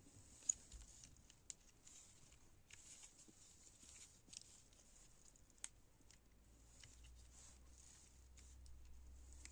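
Near silence with faint, scattered small clicks and light taps over a soft hiss, the sharpest click about half a second in.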